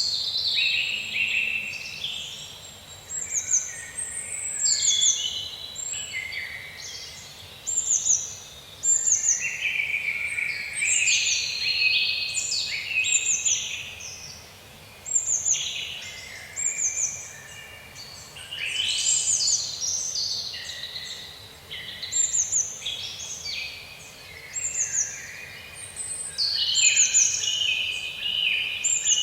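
Forest songbirds singing and chirping: several birds overlap, with quick high notes sliding downward every second or so over lower warbling phrases.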